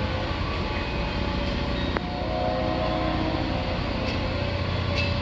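Excursion passenger train rolling slowly away on jointed track, a steady low rumble of wheels on rail with a sharp click about two seconds in.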